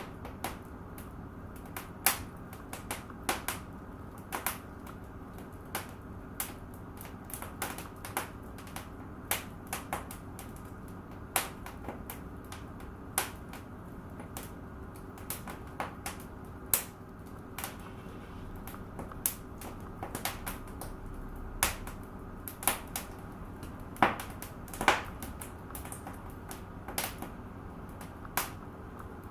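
Wood fire in a fireplace crackling: irregular sharp pops and snaps, one to a few each second with some louder ones, over a low steady hiss of the burning.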